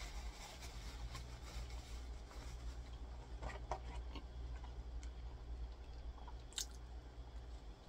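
Close-miked chewing of a soft buttermilk biscuit, with small wet mouth sounds and a few faint clicks. A steady low hum runs underneath.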